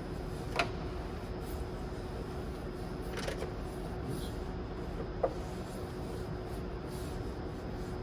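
Light rustling of a damp rag wiped over engine-bay surfaces, with two small sharp knocks, one under a second in and one about five seconds in, over a steady low hum.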